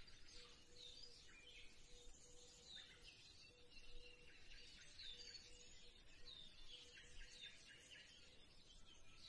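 Faint birdsong: small birds chirping over and over in short, quick notes, with a faint steady tone beneath.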